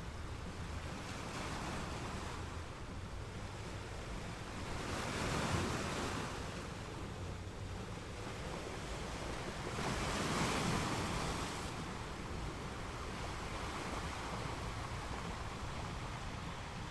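Ocean waves breaking over steady surf, two waves swelling up and washing through, about five seconds in and again about ten seconds in.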